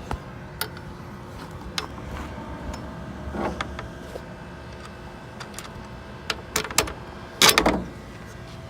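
Scattered sharp clicks and knocks of gear being handled and stowed, with a louder short clatter about seven and a half seconds in, over a steady low hum.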